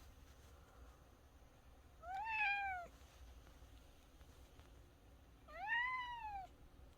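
Domestic cat meowing twice, two long meows about three and a half seconds apart, each rising and then falling in pitch: a talkative cat calling insistently.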